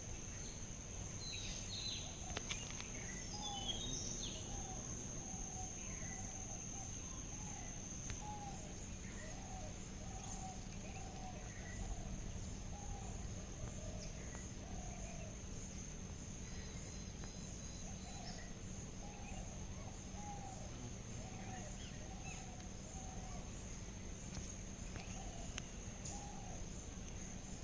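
Outdoor ambience: insects trilling in one steady high-pitched note, with a bird calling in a run of short repeated notes and a few higher chirps, over a low background rumble.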